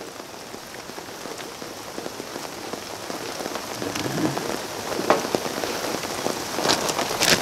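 Steady rain falling on surfaces, with a few sharp rustles of a plastic zip bag being handled in the second half.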